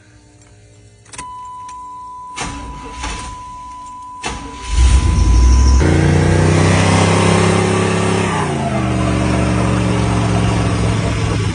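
Truck engine started with fresh oil after an oil and filter change. The ignition-on chime sounds and a couple of clunks come before the engine catches about four and a half seconds in. It runs at high revs for a few seconds, then drops to a lower, steady idle.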